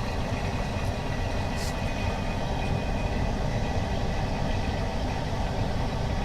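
Screen laminating machine running steadily through its OCA laminating cycle: a constant mechanical hum and hiss, with a faint click about a second and a half in.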